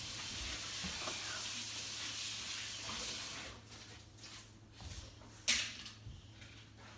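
Die-cast toy car rolling down a plastic track, a steady rushing rattle for about three seconds that then dies away. A few light clicks follow, and one sharp clack about five and a half seconds in.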